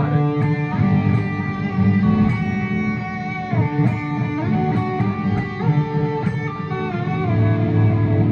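Guitar playing a melody in D Lydian that features the raised fourth (G♯), with slides between notes over a sustained low D.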